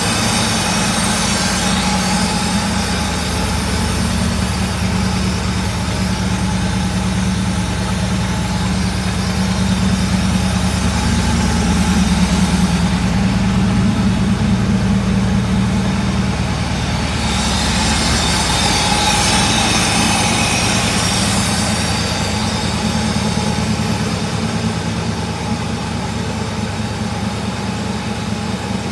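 Mercedes 6.9's 6.9-litre V8 idling steadily after a cold start. It runs really loud because the muffler has been cut off.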